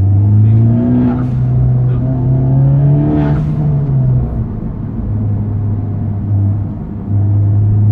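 Honda Civic Type R FK8's 2.0-litre turbocharged four-cylinder pulling through an Armitrix valved exhaust. The engine note climbs in the first second and holds, then drops about four seconds in at a gear change or lift-off and runs on steadily, with a brief hiss about three seconds in.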